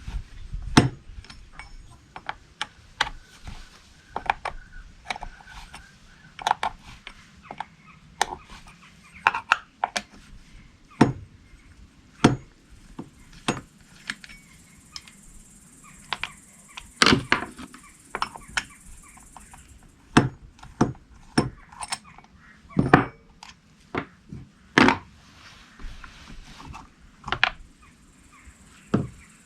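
Irregular clicks, taps and knocks of hand tools and small chainsaw parts being handled and set down, one to a few a second.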